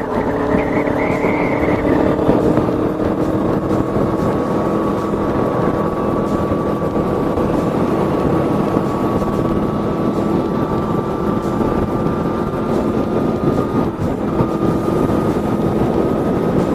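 Aprilia Tuono V4's V4 engine running under way, its note slowly rising in pitch over a steady rush of noise, with a brief dip about fourteen seconds in.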